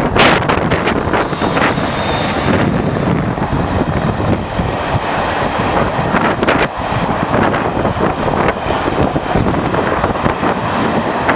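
Loud, steady rushing of wind buffeting the microphone, with scattered short knocks.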